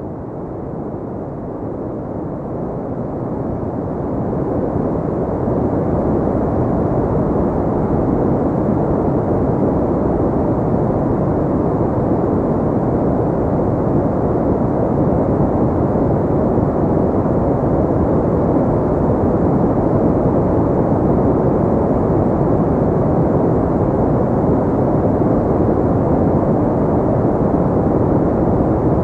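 Synthetic pink noise: a steady, even, muffled hiss with little treble and no pattern. It fades in over the first few seconds, then holds level.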